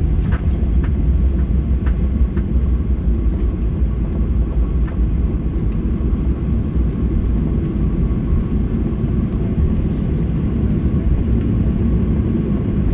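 Steady low rumble of engine and airflow noise inside the cabin of a Boeing 737-800 with CFM56 turbofans, during the landing. A few faint clicks or rattles come in the first couple of seconds.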